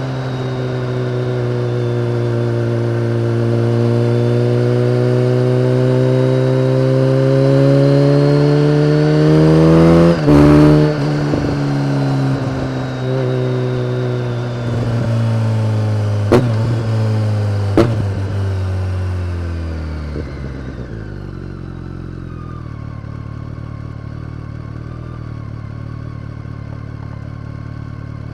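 BMW K1300R inline-four through an Akrapovic exhaust: the engine note climbs steadily for about ten seconds, breaks off sharply, then falls away with two sharp exhaust pops as it slows. It settles to a steady low note.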